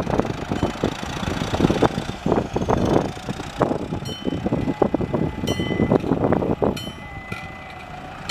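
2001 New Holland TS100 tractor's diesel engine running, with irregular rough knocks and buffeting over it. A few short high-pitched chirps come in the second half, and the sound drops quieter near the end.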